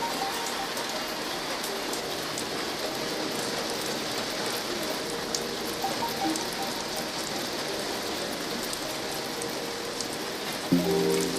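Steady rain pattering, with occasional sharp crackles of a log fire. Soft music with held notes runs underneath, and a louder chord comes in near the end.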